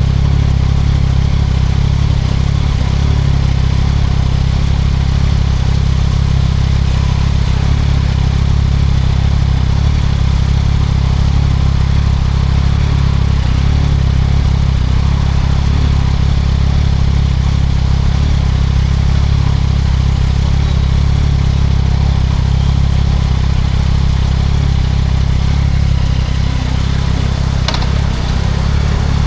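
2024 Yamaha MT-09 SP's three-cylinder engine running through a Spark triple-exit full exhaust while riding along at a steady pace, heavy in the low end. There is a brief click near the end.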